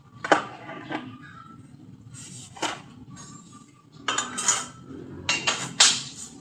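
Metal pieces clinking and knocking against each other, with sharp metallic strikes at irregular intervals. A few come singly, then a denser run of clatter follows in the second half.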